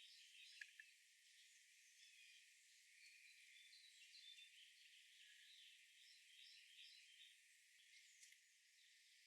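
Faint chorus of small wild birds chirping and twittering, several calls overlapping, thin-sounding with no low end.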